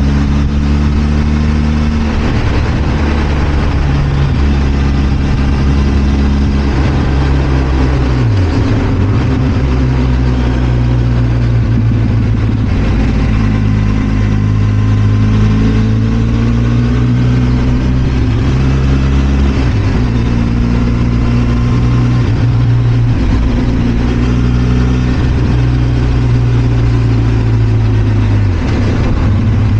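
Benelli TRK 502 X's parallel-twin engine running steadily as the motorcycle is ridden. Its pitch dips and settles at a new level about eight seconds in, again around twenty seconds, and near the end.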